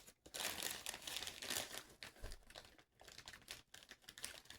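4-ounce plastic snack bag of cheese puffs crinkling as it is handled, in irregular bursts of crackle.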